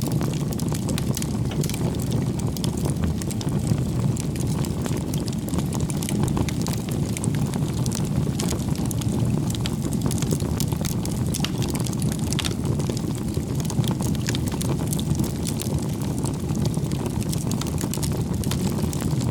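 Wood campfire burning: a steady low rush of flames with frequent small crackles and pops from the burning wood.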